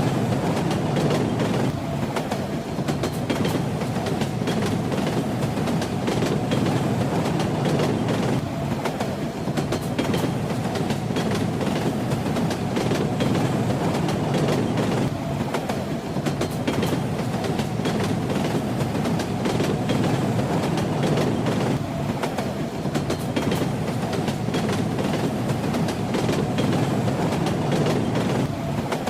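A train rolling along the track: a steady low rumble with the rhythmic clack of wheels passing over rail joints.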